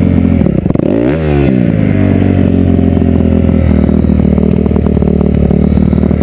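Motocross bike engine running, revved up and back down once about a second in, then held at a steady speed.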